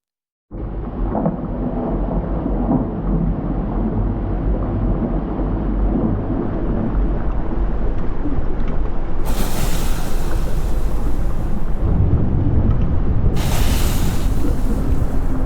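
Volcanic eruption rumbling deeply and continuously, starting abruptly, with two loud hissing surges of a few seconds each in the second half.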